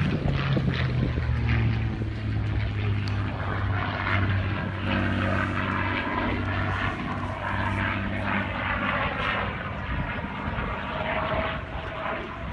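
Piston-engined propeller airplane flying, its engine droning steadily, the sound easing off near the end.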